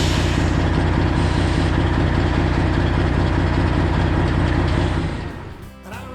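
Straight-piped Detroit Diesel 12.7 in a Freightliner Classic XL semi truck idling steadily, then fading out about five seconds in as country music begins.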